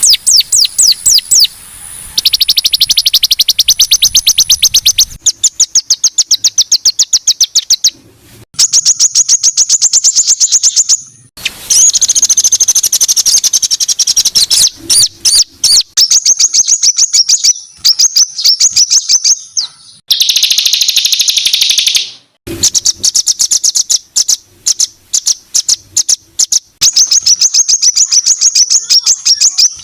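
A songbird singing harsh, high-pitched rapid-fire notes, the 'tembakan kasar' song used as masteran for training songbirds: long runs of very fast repeated sharp notes, broken by short pauses every few seconds.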